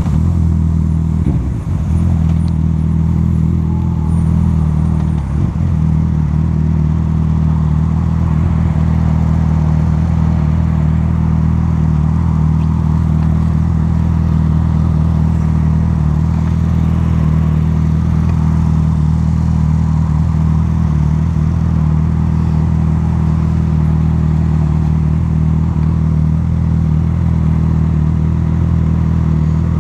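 Honda CB1000R's inline-four engine running steadily, its pitch holding level, with a brief dip twice in the first few seconds.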